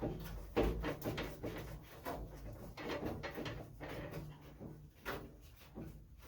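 Irregular small knocks, clicks and rattles of car parts and tools being handled and set down, thinning out near the end.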